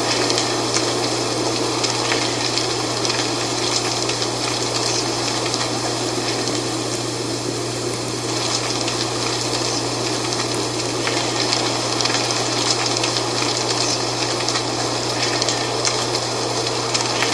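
Wind blowing through dry fall leaves, making a steady rustle full of fine crisp crackles, with a steady low hum underneath.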